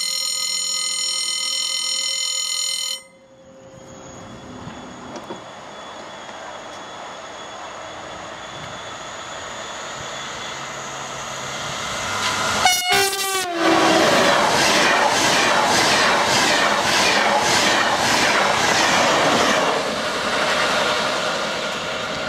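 TGV Duplex high-speed train approaching and passing close by. It gives a short horn blast about 13 seconds in, then goes by with a loud, rhythmic clatter of wheels that eases off near the end. Before the train is heard, a steady ringing tone stops abruptly about three seconds in.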